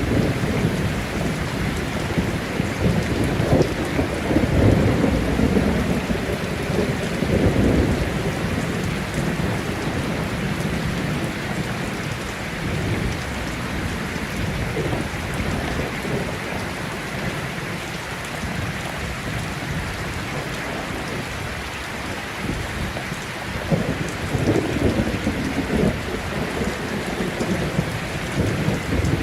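Thunderstorm: steady heavy rain with rolling thunder, which rumbles louder through the first several seconds, eases off in the middle and swells again near the end.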